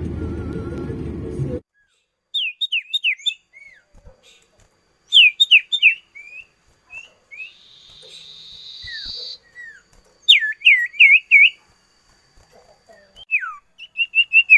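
Common iora (cipoh) calling: quick runs of three to five short, sharply falling whistled notes, with a drawn-out buzzy note in the middle. A short stretch of music ends about a second and a half in.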